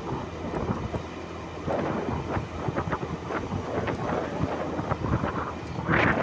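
Wind buffeting the microphone: an uneven rumbling noise that surges and drops, loudest near the end.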